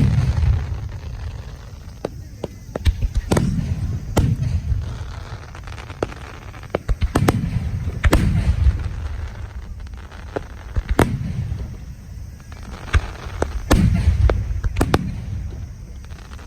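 Aerial firework shells bursting, a sharp bang every three to four seconds, sometimes two close together. Each bang is followed by a long low boom that rolls away.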